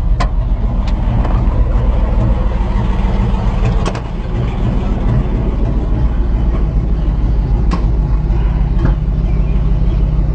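Tow truck engine running with a steady, deep exhaust rumble, loud because of a muffler in need of repair, with a brief drop in loudness about four seconds in and a few light clicks.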